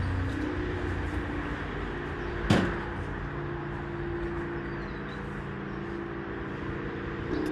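Steady low mechanical hum with a few held tones, and one sharp click about two and a half seconds in.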